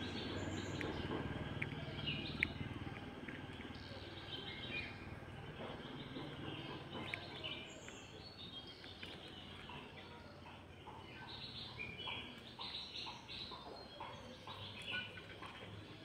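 Small birds chirping over outdoor background noise. A low steady rumble fades over the first few seconds, and the chirps grow busier in the second half.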